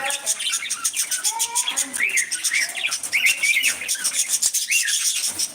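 Budgies chirping and chattering: short rising-and-falling chirps over a fast run of clicking notes.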